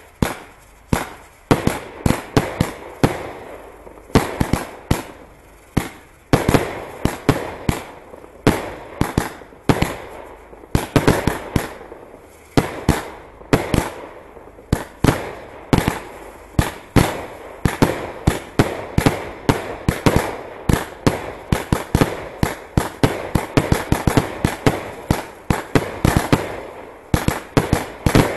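Fireworks display: shells launched and bursting in a dense, irregular barrage of sharp bangs, several a second, each one trailing off quickly.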